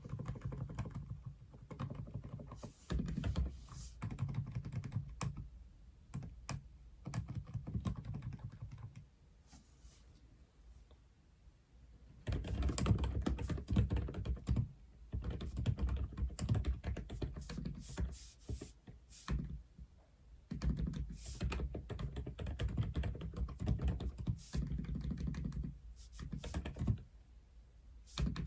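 Typing on a 독거미 (Aula) F87 mechanical keyboard: fast runs of deep, thocky key presses. There is a pause of a few seconds about a third of the way in, and a shorter one near the end.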